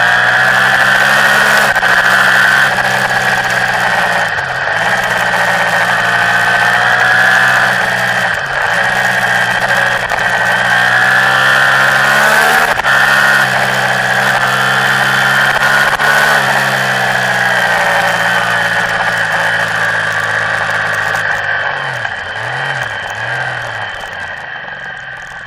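Motorcycle engine pulling hard at road-rally speed, heard from an onboard camera with wind noise across the microphone. The engine note dips sharply a few times, and near the end it falls and wavers as the bike slows for a corner.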